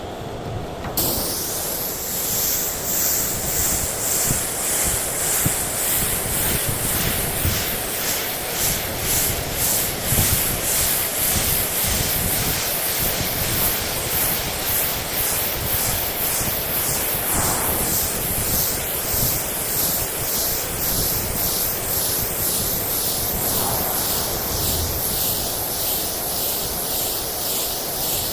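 Paint spray gun spraying primer: a steady loud hiss with a fast, even pulsing in the high end, about two a second.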